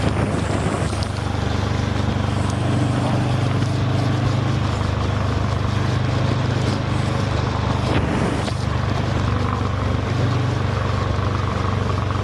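Harley-Davidson Fat Boy 114's Milwaukee-Eight V-twin engine running steadily under way, holding an even low note.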